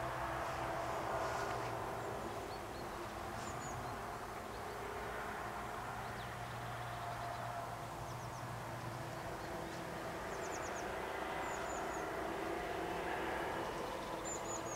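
Steady outdoor background hum with short, high bird chirps a few times, in small clusters near the middle and end.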